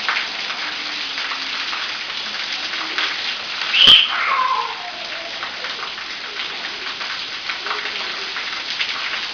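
Shower water spraying steadily, like rain. About four seconds in there is a sharp click, then a short high squeal that falls in pitch, most likely from the baby.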